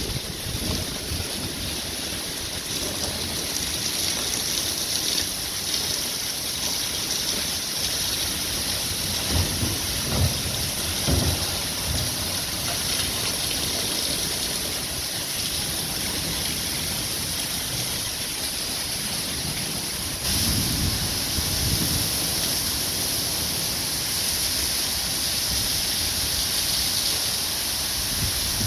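Heavy thunderstorm rain falling steadily in high wind, with low gusts buffeting the microphone. The rain grows louder about two-thirds of the way in.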